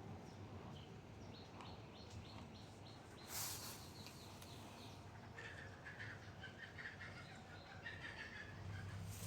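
Faint bird calls: a quick run of short high notes about a second and a half in, then scattered chirps in the second half. A brief hiss comes about three and a half seconds in.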